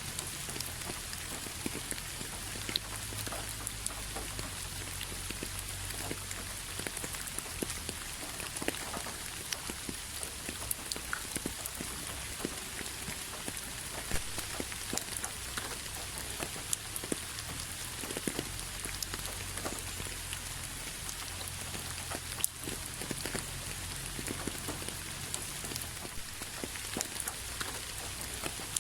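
Steady rain, a constant hiss with many separate drops striking at irregular moments and a faint low rumble underneath.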